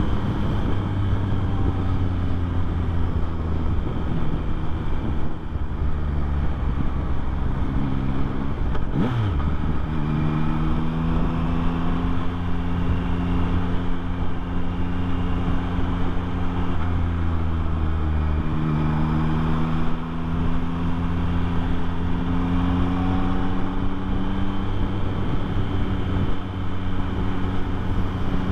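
2024 Yamaha MT-09's inline three-cylinder engine running at cruising speed with wind rushing over the microphone. About nine seconds in, the engine note sweeps sharply in pitch during a quick throttle change, then settles back to a steady note that drifts gently up and down.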